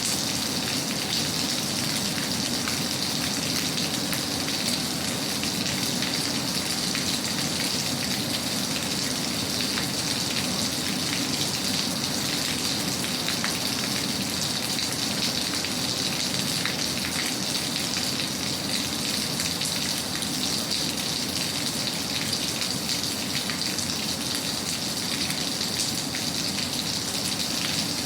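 Steady rainfall: a continuous, even hiss of rain on a surface, without pauses or changes in strength.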